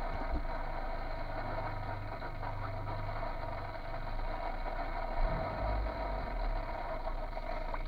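Car engine idling steadily, heard from inside the cabin as a constant low hum. The low rumble deepens for a moment about five seconds in.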